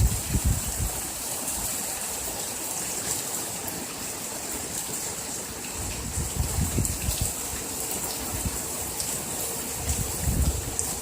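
Heavy rain pouring down steadily in a storm, with water rushing. Gusts of wind buffet the microphone at the start, about seven seconds in and near the end.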